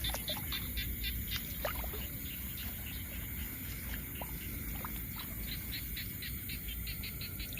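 Night chorus of frogs and insects in a flooded field: a fast, even train of short high calls, several a second, over a steady high insect drone.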